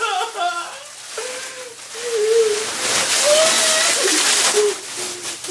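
A child's wordless, wavering voice, with a loud rushing hiss from about two seconds in until about four and a half seconds.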